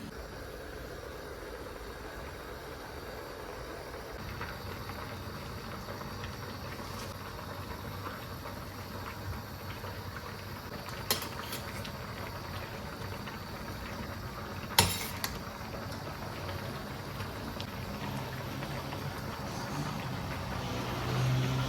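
Steady hiss of food cooking in a pot on the stove, with a few sharp clinks of utensils or dishes; the loudest clink comes about 15 seconds in.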